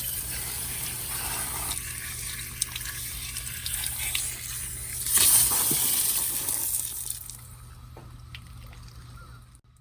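Water spraying out of a Woodford Model 24 hose bib as the hose is taken off with the house's main shut off: the pressure left in the line escaping. The spray is strongest about five to seven seconds in, then dies down.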